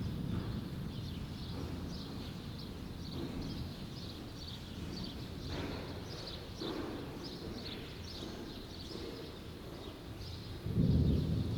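Low rumble of thunder dying away at the start, then small birds chirping over a steady low background rumble of the storm. A short, louder low rumble near the end.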